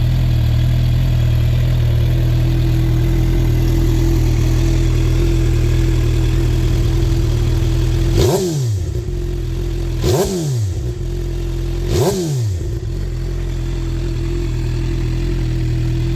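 2012 Suzuki GSX-R750's inline-four engine idling with a deep note through an M4 slip-on exhaust, blipped three times about two seconds apart, each rev rising sharply and dropping straight back to idle.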